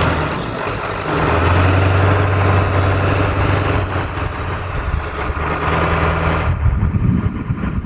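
Ford Powerstroke diesel truck engine running as the truck drives off, a steady low hum under a broad noise of tyres and road; the higher noise drops away about six and a half seconds in.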